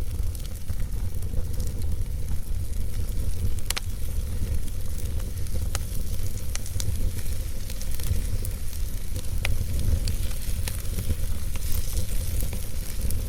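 Wood logs burning in a fireplace: a steady low rumble and hiss of the fire with scattered sharp crackles and pops.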